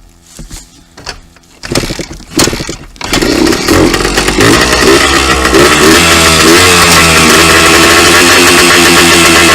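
Two-stroke dirt bike engine sputtering as it is started, catching about three seconds in, then revved up and down and held at high revs.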